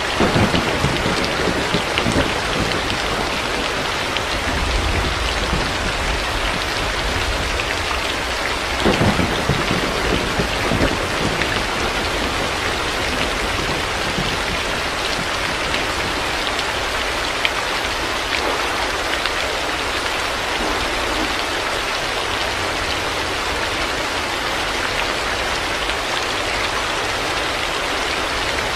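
Heavy rain falling steadily, with low rolls of thunder in the first half.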